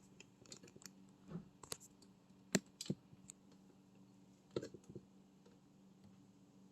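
Irregular sharp clicks and knocks of hand tools and metal parts being handled. The loudest are two knocks about two and a half seconds in and another cluster around four and a half seconds in, over a faint steady hum.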